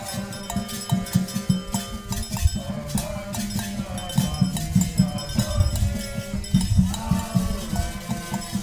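Ritual singing over hand drums and a clanging bell keeping a fast, steady beat, in the manner of Candomblé music for Xangô.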